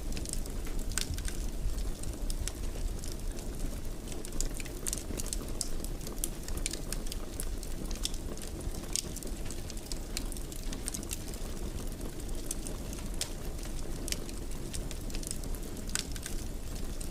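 Fire burning in a fireplace: a steady low rush with frequent small crackles and pops scattered throughout.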